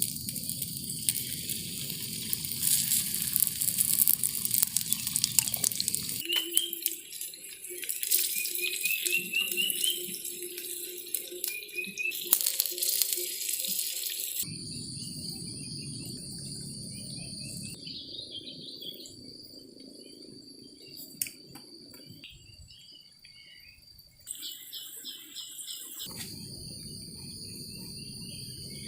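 Crickets and other night insects chirping steadily. Through the first half there is a hissing, crackling noise from the wood-fired cooking stove, which cuts off abruptly around the middle.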